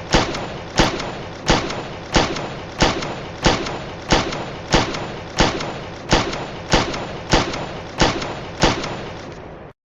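Weapon sound effect: a steady run of about fourteen heavy thuds, roughly three every two seconds, each trailing into a continuous rumbling noise. It stops abruptly near the end.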